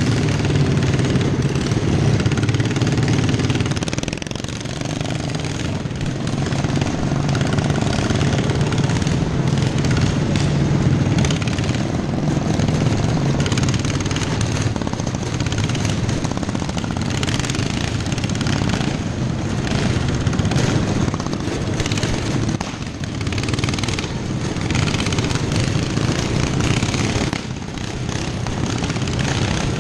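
Racing lawnmower engines running hard, a continuous engine sound that dips and swells a few times.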